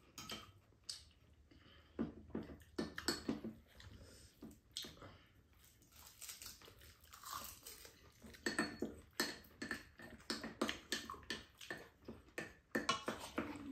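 Two people chewing and eating at close range, with irregular mouth sounds and small clicks of spoons and chopsticks on bowls.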